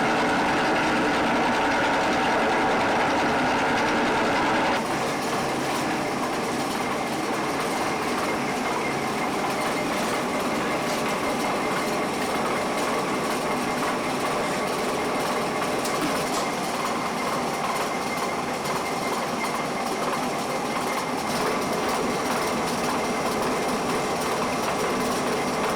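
Steady mechanical noise of factory machinery running, with an abrupt change in character about five seconds in.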